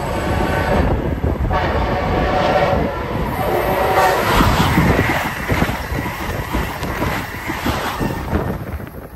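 Amtrak Acela high-speed trainset sounding its horn as it approaches, then rushing past at speed with loud wheel and air noise. The noise is loudest about four to five seconds in and fades near the end.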